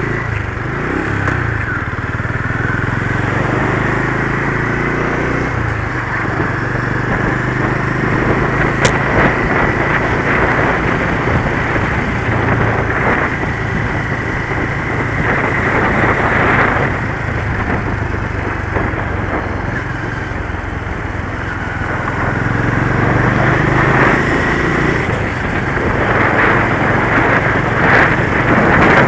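Motorcycle engine running while riding, its pitch rising and falling with the throttle, under a steady rush of wind noise.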